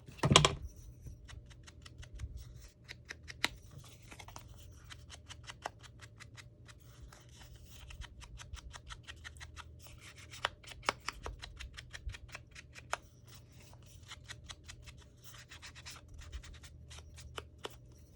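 Paper craft work at a desk: paper and cardstock being handled, rubbed and trimmed, with many small scratches and clicks. A louder knock comes right at the start.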